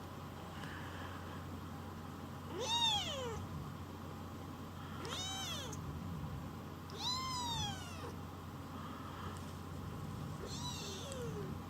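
Young kitten meowing: four high cries about two seconds apart, each rising and then falling in pitch, the last one fainter.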